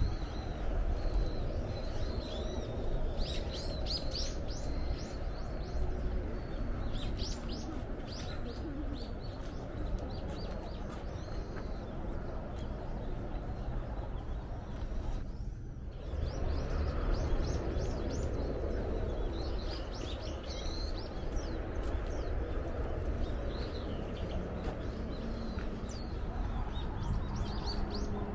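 Small birds chirping in repeated short calls over a steady low rumble. The sound briefly cuts out about halfway through.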